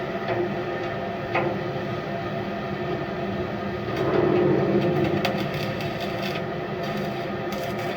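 Steady machinery hum with a few fixed tones, joined by a run of clicks and knocks about halfway through.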